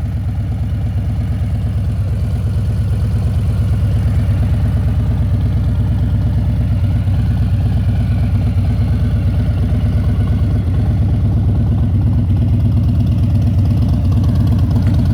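2018 Harley-Davidson Fat Boy's 1745 cc V-twin engine idling with an even, steady pulse, getting slightly louder over the first few seconds.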